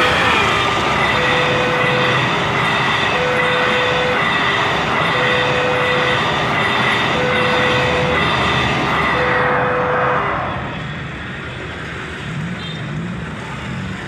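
Passenger train passing over a level crossing, a loud steady rush of wheels on rails that drops away about ten seconds in, leaving quieter road traffic. A level-crossing warning alarm beeps about every two seconds over the train and stops as it clears. The falling tail of a horn note dies out right at the start.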